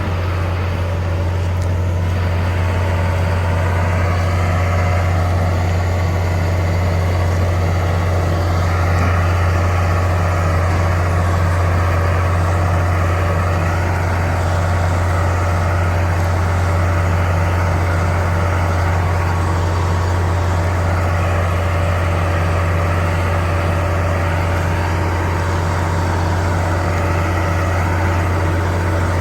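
Heavy machine's engine running steadily at a constant speed, a deep even hum with no revving or change.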